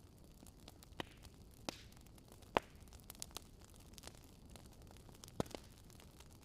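Wood fire crackling: scattered sharp pops over a low steady hiss, the loudest pop about two and a half seconds in.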